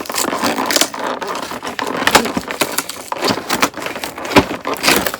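Cardboard advent calendar door being torn open and the small boxed item inside handled: a run of crackling, rustling and sharp clicks.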